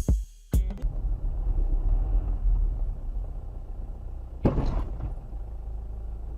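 Car on the road with a steady low road and engine rumble, broken about four and a half seconds in by a loud, sudden crash lasting about half a second.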